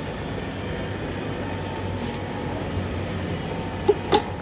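Steady low mechanical rumble, with two short sharp clinks near the end.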